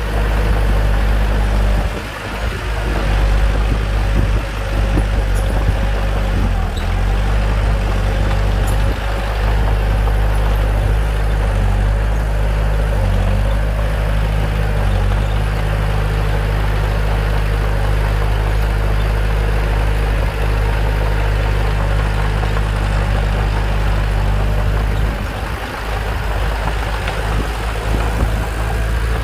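Bulldozer's diesel engine running steadily with a low, even engine note, dipping briefly about two seconds in and again near the end.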